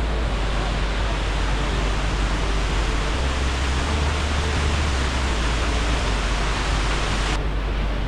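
Waterfall rushing: a steady, dense wash of falling water with a deep rumble beneath. The hiss turns duller near the end.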